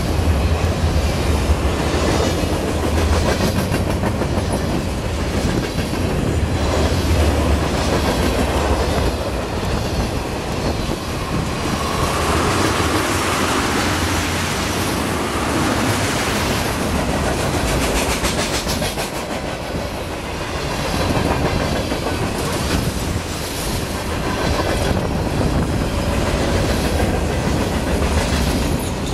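Mixed freight cars (hoppers and tank cars) of a long freight train rolling past close by: steady rumble of steel wheels on rail with a repeating clickety-clack as the trucks cross rail joints.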